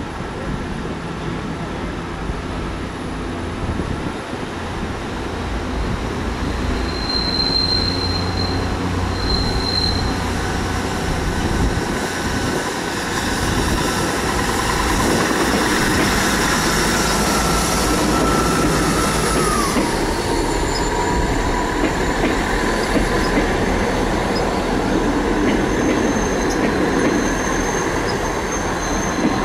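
A train running on the rails, its rumble growing louder, with a high squealing tone that slides down in pitch about twenty seconds in. Two short high beeps sound around seven and nine seconds in.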